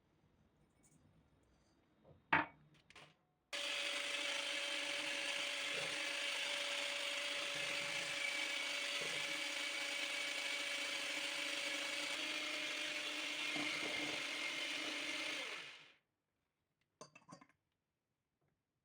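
A small electric kitchen appliance starts about three and a half seconds in and runs steadily for about twelve seconds with a gritty grinding noise and a steady hum, then stops. There is a sharp click shortly before it starts, and two or three light clicks after it stops.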